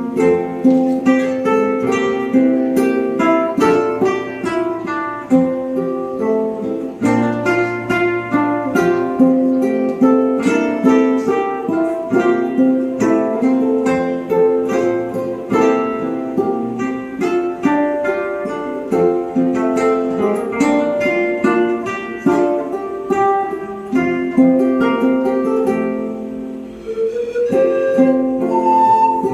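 Classical guitar and ukulele playing a plucked instrumental passage of a slow ballad, with quick picked notes over strummed chords. A higher held note comes in near the end.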